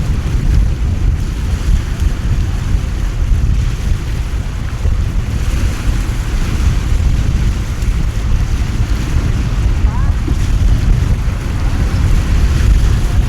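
Heavy rain and strong wind, with the wind buffeting the microphone as a steady low rumble over the hiss of the downpour.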